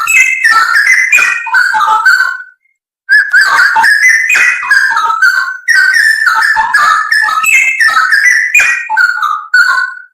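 Straw-headed bulbul (cucak rowo) song: loud, rapid runs of liquid whistled notes in long phrases, with a short break about two and a half seconds in. The sound cuts off abruptly at the end.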